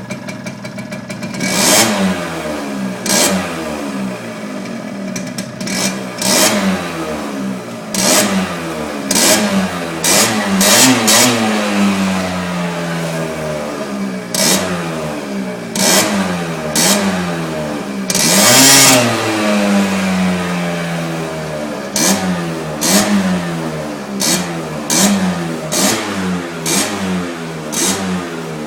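Piaggio NRG two-stroke scooter engine with an 80cc Malossi big-bore kit and a Giannelli exhaust, idling briefly and then revved over and over in short throttle blips, the pitch rising and falling each time, with a few longer revs held a second or so.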